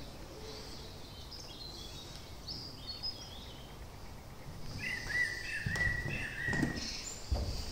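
Songbirds chirping outside with short high notes, then a longer steady whistle about five seconds in. There are a few low knocks of handling or steps near the end.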